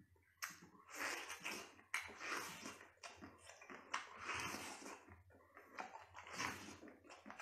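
Person biting into and chewing a thick octopus tentacle, in a string of short bursts about once a second.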